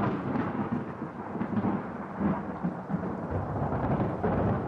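Thunder rumbling: a long, continuous rumble that swells and fades several times.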